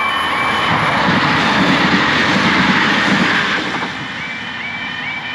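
Diesel multiple-unit passenger train passing through a level crossing. Its rushing noise swells to a peak about two to three seconds in and then fades. The crossing's warbling yodel alarm, a rapid series of rising tones, sounds under it and stands out again near the end.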